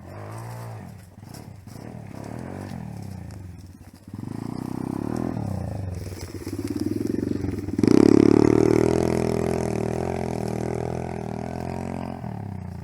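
Dirt bike engine revving and pulling away. It grows louder from about four seconds in, is loudest at about eight seconds, then slowly fades.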